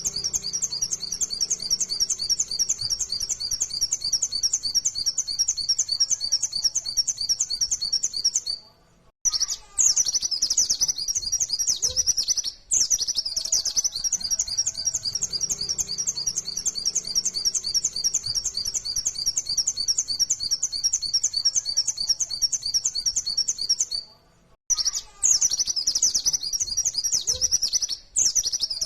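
White-eye (pleci) singing a fast, unbroken run of high rapid notes, the 'nembak' (shooting) song, with short pauses about 9 and 24 seconds in.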